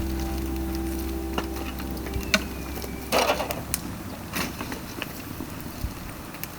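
Dry bamboo burning in an open fire, crackling with scattered sharp pops and snaps and a longer crackling burst about three seconds in. Held notes of a music track fade out over the first half.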